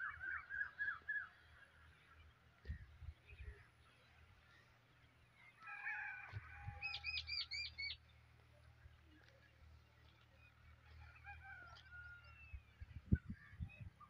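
Wild birds calling: a quick run of short, hooked calls at the start, a louder burst of several overlapping calls, some high and rapidly repeated, about six seconds in, and a few more calls near the end. Under them a faint low rumble with a few soft thumps.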